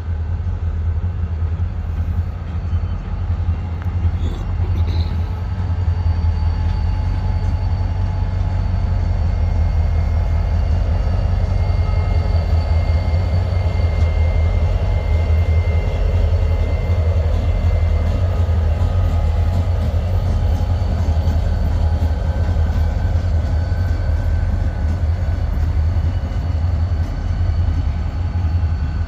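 EMD SD40-2 diesel-electric locomotives passing, their 16-cylinder two-stroke engines giving a loud, steady low rumble, with faint thin high tones over it.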